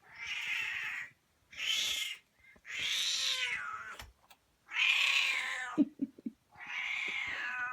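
A cat meowing five times, each call a little under a second long and about a second apart, the fourth trailing down in pitch. A few short knocks come between the fourth and fifth meows.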